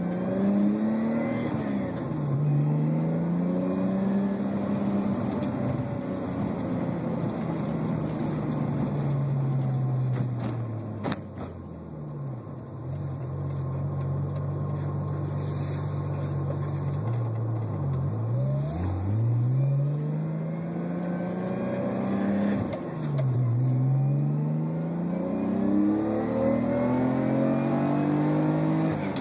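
1987 BMW M6's 3.5-litre straight-six with a modified exhaust (stainless headers, Moroso spiral-flow muffler, glass pack, 3-inch MagnaFlow), heard from inside the cabin. The engine revs up through the gears, its pitch climbing in long rises and dropping back at each shift, several times over.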